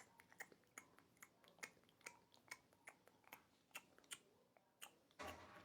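Cat licking its fur, a faint run of short wet clicks about two and a half a second. A louder rustle comes near the end.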